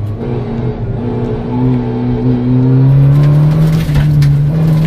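VW Polo 1.4 rally car's engine pulling under throttle, heard from inside the cabin. Its pitch climbs slowly over the first few seconds and then holds steady, with a few short knocks near the end.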